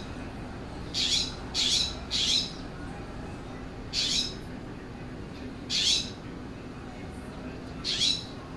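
California scrub jay giving short, harsh, raspy calls: three in quick succession about a second in, then three more spaced about two seconds apart.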